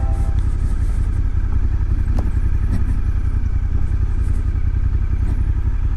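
Motorcycle engine running steadily under way, a low, even throb.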